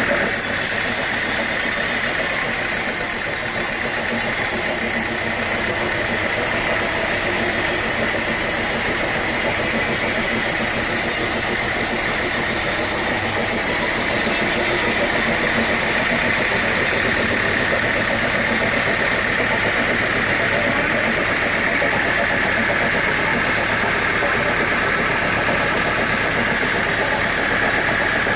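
Sawmill saw machinery running steadily, with a continuous high whine that wavers slightly in pitch and a hiss over it that eases about halfway through.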